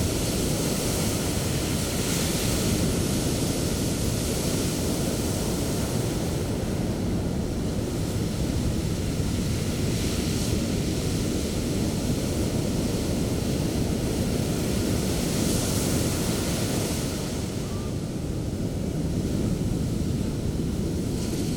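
Sea surf breaking on a beach: a continuous rushing wash, with a fresh swell of hiss every few seconds as waves break into white foam.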